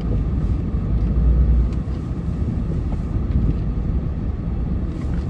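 Plow truck running and pushing snow: a steady low engine rumble that swells briefly about a second in.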